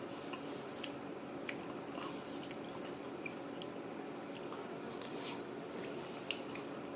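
A person chewing a mouthful of soft food (a tofu, rice and bean bowl), with small wet mouth clicks and squishes, over a steady background hum.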